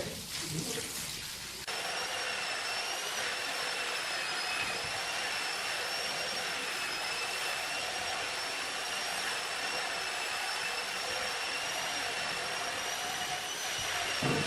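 An electric power tool's motor switches on about two seconds in and runs steadily with a high-pitched whine.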